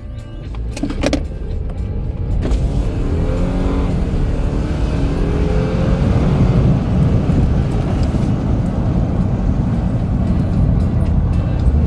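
BMW 320i engine running loudly, its pitch rising twice in the middle as it revs, with music playing underneath.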